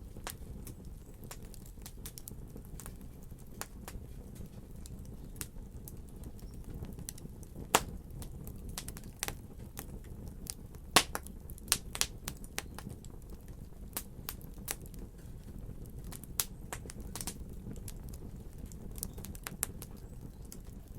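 Wood fire crackling in a fireplace: a steady low rumble of flames with irregular sharp pops and snaps. Two pops stand out as louder, one about a third of the way in and one about halfway.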